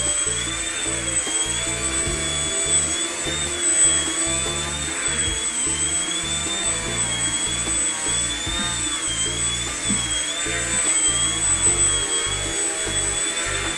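Electric motor and propeller of a small indoor foam RC plane whining, its pitch rising and falling every second or two with the throttle, over background music.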